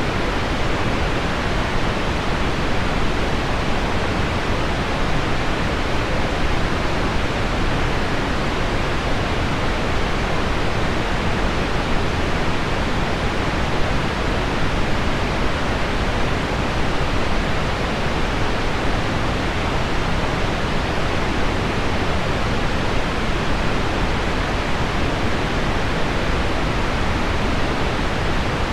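Steady pink noise mixed with heavy rain on window glass: an even, unbroken hiss with a deep, full low end and no single drops or changes standing out.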